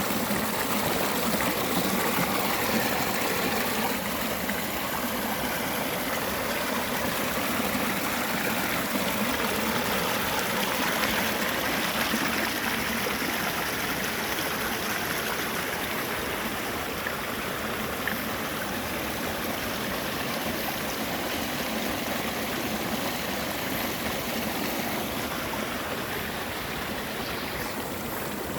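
Flowing water of a stream, a steady rushing.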